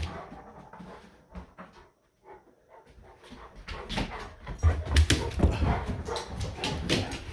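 Great Pyrenees puppy making dog sounds, with scuffling and clicking noises that grow busy from about four seconds in after a quieter stretch.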